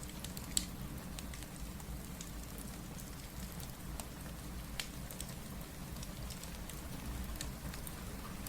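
Steady rain with a low rumble underneath, mixed with the scattered sharp pops of a crackling wood fire; the loudest pop comes about half a second in.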